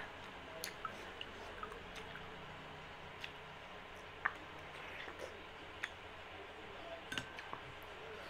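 Close-up mukbang eating sounds: a person chewing soft, slippery laphing, with wet mouth smacks and scattered small sharp clicks, the loudest about four seconds in and again near the end.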